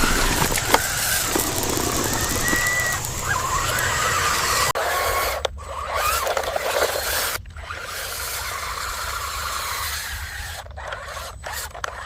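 Small electric motors of radio-controlled construction toys whining in short rising and falling glides, over a steady scraping noise. The sound drops out abruptly several times in the second half.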